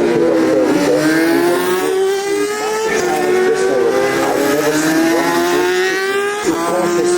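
Superbike racing motorcycle engine at high revs, pulling through the gears. The pitch climbs steadily and drops suddenly at upshifts about three seconds in and again near the end.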